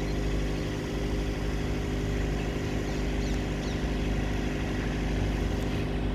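Diesel engine of an XPT power car running with a steady low drone as the train draws into the platform.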